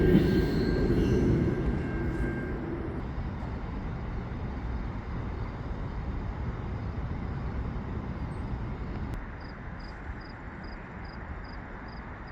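Siemens passenger trainset going away on the rails. Its wheels squeal and rumble loudly for the first few seconds, then fade to a low rumble. From about nine and a half seconds in, a cricket chirps steadily, about three chirps a second.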